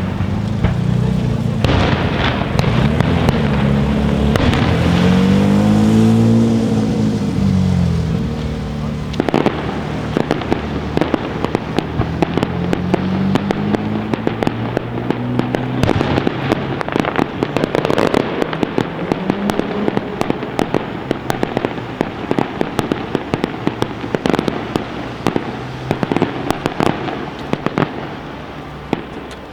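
A fireworks display: a dense, loud wash of bursts with rising and falling tones in the first half, then a long run of rapid sharp cracks and pops.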